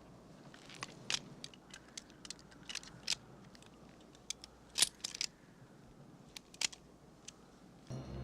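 About a dozen light, irregularly spaced clicks and taps of small hard objects being handled, over a faint hiss.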